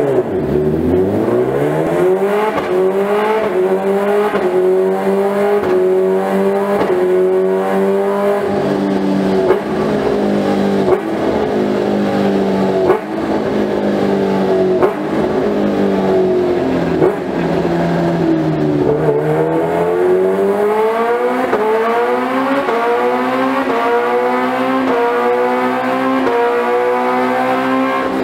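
Kawasaki Ninja H2R's supercharged inline-four running on a dyno, revving hard with its pitch climbing in a series of steps as it goes up through the gears. Its pitch drops about two-thirds of the way through, then it climbs through the gears again in quick steps.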